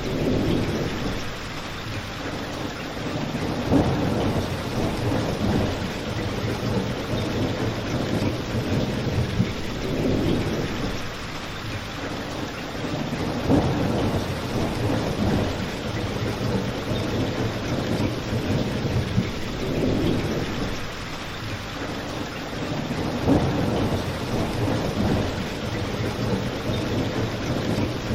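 Steady rain with a low rumble that swells and fades every few seconds, and a few sharp crackles from a wood fire.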